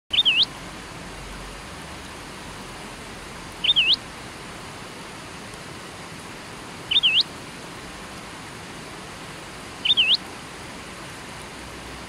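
A songbird's short call, the same call four times about three seconds apart, each a quick dip then a sharp upward sweep. Under it the steady rush of a river flowing over rocks.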